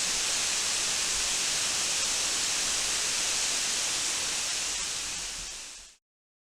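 Waterfall rushing: a steady, hissing roar of falling water that fades out over the last second and a half.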